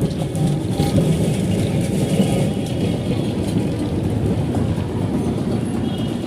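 Kolkata electric tram running on street track, a steady low rumble and rattle of the car and its wheels.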